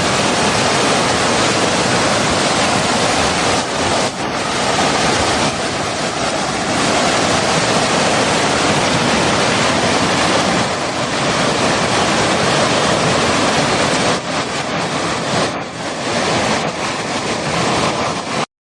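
Flowing water rushing steadily as a dense, even hiss, dipping briefly a few times before cutting off abruptly just before the end.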